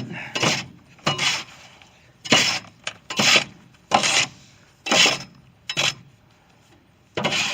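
Shovel scraping and scooping into a load of sandy dirt, a quick rough scrape about once a second, eight strokes in all.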